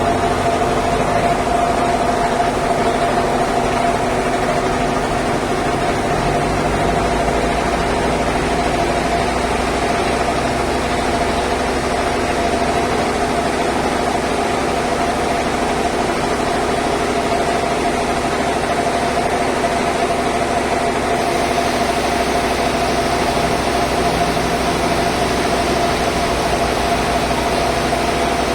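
Band sawmill machinery running steadily: a constant mid-pitched whine over a broad mechanical hum, with more high hiss from about 21 seconds in.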